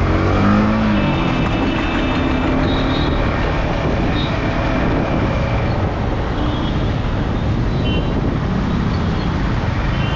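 Yamaha R15M motorcycle riding at speed: its single-cylinder engine running under a steady, loud rush of wind and road noise, with the engine note shifting in pitch about a second in.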